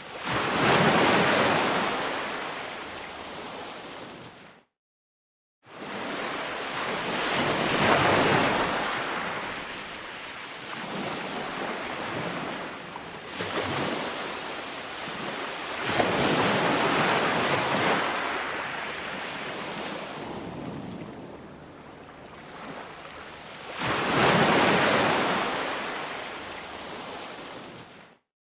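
Ocean waves breaking on a shore: a surge of surf about every eight seconds, four in all, with washing in between. The sound cuts out to silence for about a second near the 5-second mark and again at the end.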